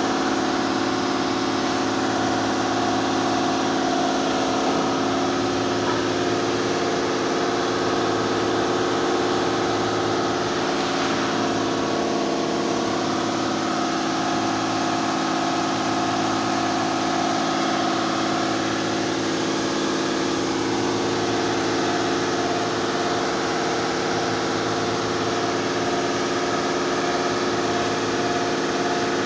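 Chevrolet Impala's 3.6-litre V6 engine idling steadily, its timing set.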